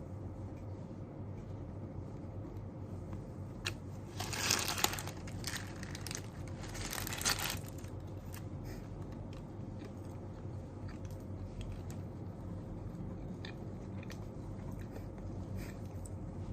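Steady low room noise with two short bursts of crinkling, rustling handling noise about four and seven seconds in, and scattered light taps.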